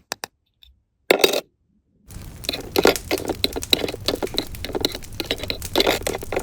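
Small hard toy kitchen pieces clicking and clinking: a few separate sharp taps, then from about two seconds in a busy run of clinks and clatter.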